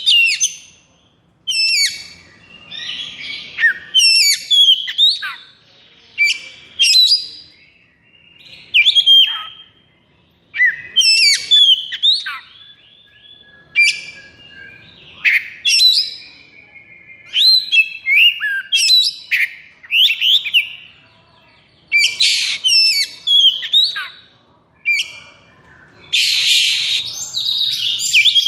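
Oriental magpie-robin (kacer) singing hard in the agitated 'konslet' style: short bursts of loud whistles, quick glides and rapid chattering notes, one phrase after another with brief pauses.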